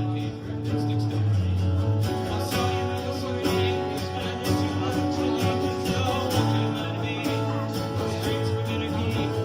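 Live acoustic guitar music, steady and sustained, with a strong low bass line underneath.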